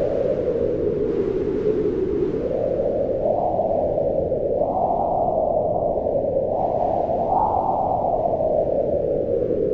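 Howling wind: a steady rushing noise whose pitch slowly rises and falls back several times, highest about five and seven and a half seconds in.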